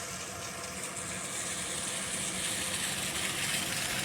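Steady rain falling, an even hiss that swells a little in the middle, over a steady low engine hum.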